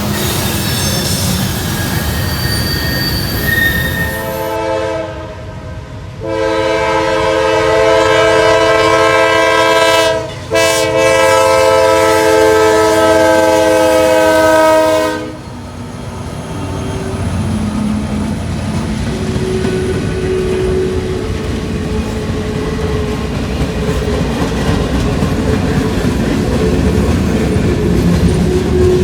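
Railroad locomotive air horn sounding a chord of several notes: it comes in about four seconds in, then gives two long blasts with a brief break between them. Passing train wheels clatter on the rails underneath and carry on after the horn stops.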